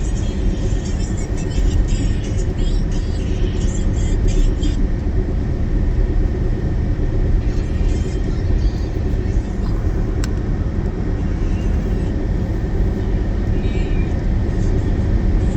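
Steady low rumble of a car driving, heard from inside the cabin, with crackling rain patter on the car during the first few seconds and again near the end.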